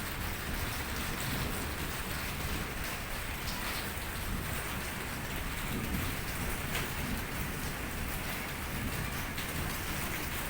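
Steady rain falling, with scattered drops pattering on surfaces.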